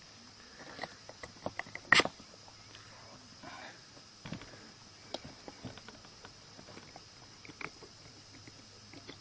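Scattered light clicks and small knocks of things being handled, with one sharper click about two seconds in.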